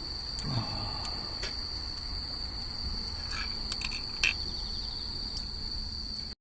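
Crickets chirping in one steady, unbroken high trill, with a few light clicks and one sharper click about four seconds in.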